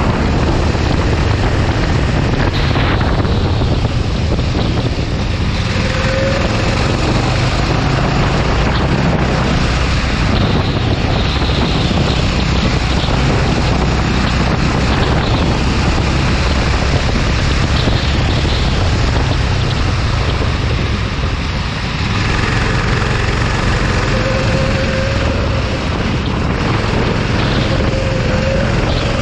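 Racing kart engine running at speed, with heavy wind noise on the microphone.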